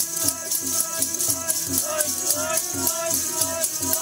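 Sikh kirtan: a voice singing a gliding devotional melody over steady held notes, with a quick, even percussion rhythm and metallic jingling on each beat.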